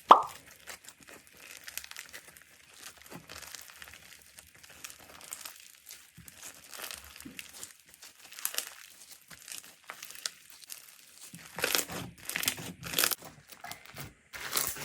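Slime being squeezed and worked by hand: a dense run of small irregular clicks and pops, with a sharp loud pop at the very start and a cluster of louder squelches near the end.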